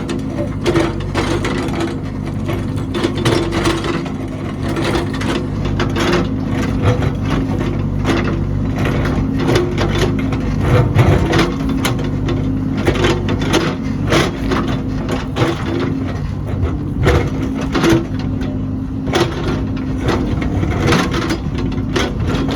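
A heavy diesel construction machine's engine running steadily under work, with frequent knocks and clatter of material and metal throughout.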